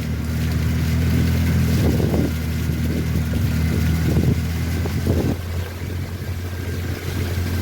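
Small engine running steadily at a constant speed, most likely a motorboat's engine moving through floodwater.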